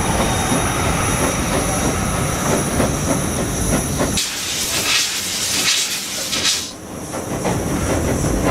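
Train running on the rails with a steady rumble, broken about four seconds in by a couple of seconds of high hiss before the rumble returns.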